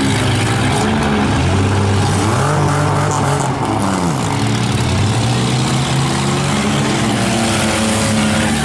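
Several demolition-derby minivan and SUV engines running at once, revving so that their pitch rises and falls over one another.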